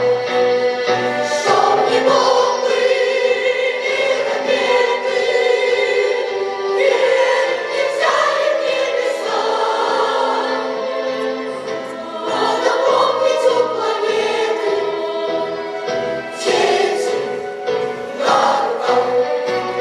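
School choir singing in long held phrases.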